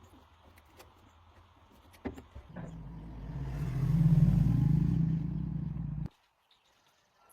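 An engine starts up after a few clicks, its low-pitched running sound building over about two seconds to a steady, loud run. It cuts off suddenly about six seconds in.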